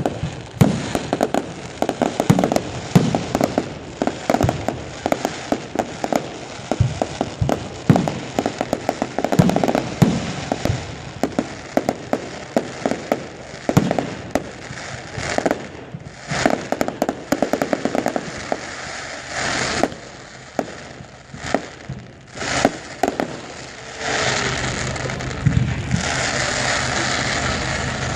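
Fireworks display: shells bursting in a quick, uneven string of sharp bangs and crackles, thickest in dense crackling volleys around the middle. Over the last few seconds the separate bangs give way to a steadier rushing noise.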